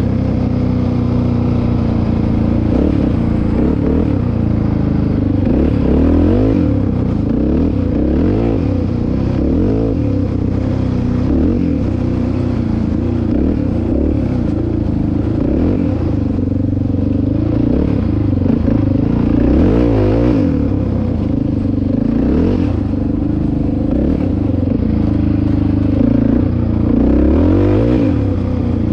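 Dirt bike engine running hard on a trail ride, its pitch rising and falling again and again as the throttle opens and closes, with some rattling.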